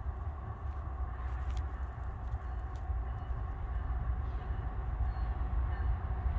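Norfolk Southern freight train led by diesel locomotives approaching from a distance: a low, steady rumble that slowly grows louder.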